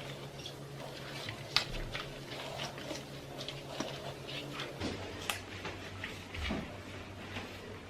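Scattered light clicks and taps of objects being handled during household cleaning, over a steady low hum that drops slightly in pitch a little before five seconds in.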